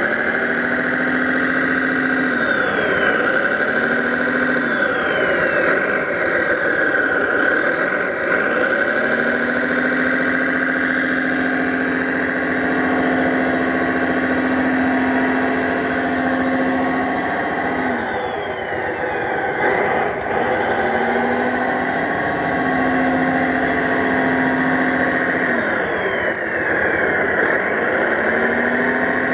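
Radio-controlled 1/5-scale Ford 6610 tractor running with a steady drone. Its pitch dips and rises again several times as it works.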